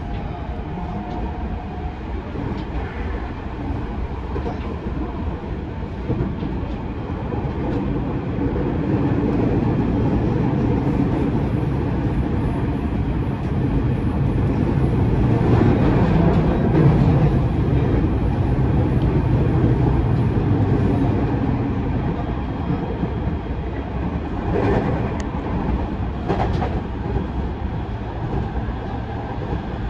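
Interior running noise of a JR East 209 series electric commuter train: a steady rumble of wheels on rail and car-body noise. It grows louder through the middle and eases off toward the end, with a couple of brief sharp clacks a few seconds before the end.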